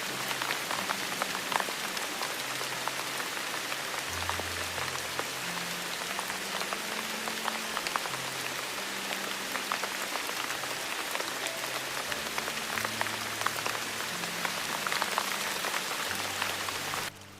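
Steady rain falling, a dense even hiss with many separate drops pattering, over soft, low sustained background tones that shift to a new pitch every second or two. The sound drops away suddenly just before the end.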